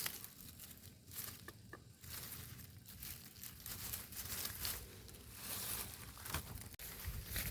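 Intermittent rustling and crinkling, like things being handled, with two brief faint high tones about one and a half seconds in.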